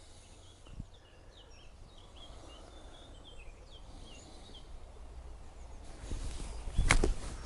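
Small birds chirping, then, near the end, a single sharp crack of a golf club striking the ball on a short approach shot.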